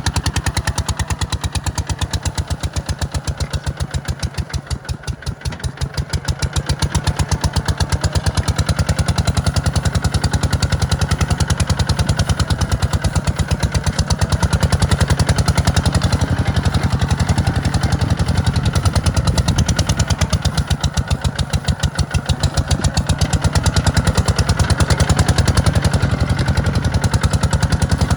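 Kubota tractor's diesel engine running steadily with a fast, even firing beat, easing off briefly about five seconds in before picking back up.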